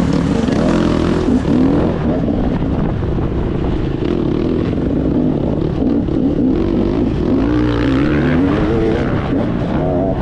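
Motocross bike engine being ridden hard, revving up and down over and over, its pitch rising and falling with the throttle.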